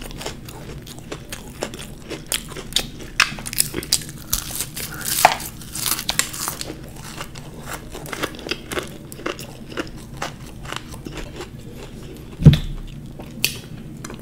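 Chewing a mouthful of fried samosa, with wet mouth clicks and small crunches throughout. One loud low thump near the end.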